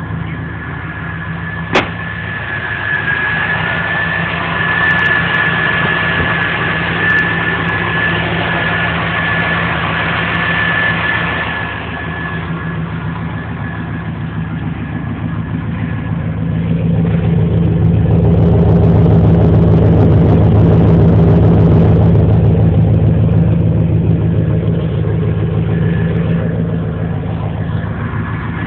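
Truck engine idling, with a steady high-pitched whine over it for the first twelve seconds and one sharp click about two seconds in. About sixteen seconds in it is revved up, held higher for several seconds, then eases back toward idle near the end.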